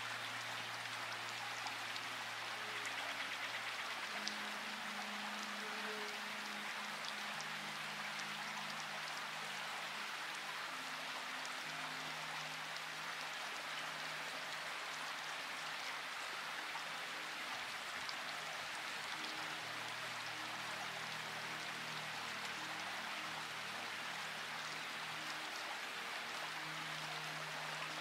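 Steady rain, an even hiss with scattered faint drop ticks. Under it are soft, low sustained notes that shift pitch every few seconds, like a quiet ambient music pad.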